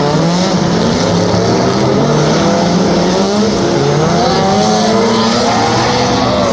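Engines of several drift cars running hard together, their overlapping pitches rising and falling as the throttles are worked.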